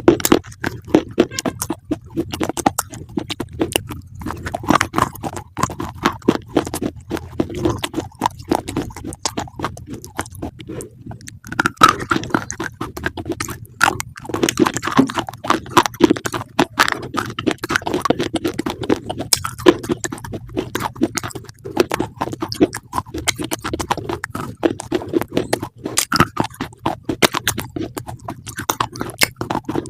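An animal chewing crisp greens: a quick, irregular run of crunches and bites with a little snuffling.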